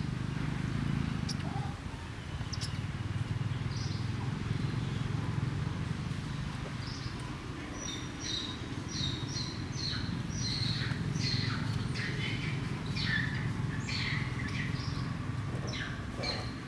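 Birds chirping: a run of short, high chirps, many falling in pitch, coming thick from about halfway through, over a steady low background rumble.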